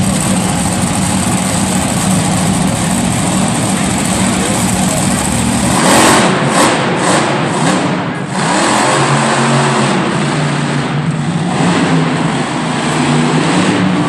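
Monster truck engine running hard and revving, with a sharp, loud surge about six seconds in and uneven rises and falls in pitch after it.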